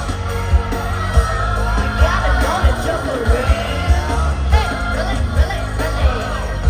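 Live pop music over a stadium sound system, with a strong bass beat and sung vocal lines, and some yells from the crowd.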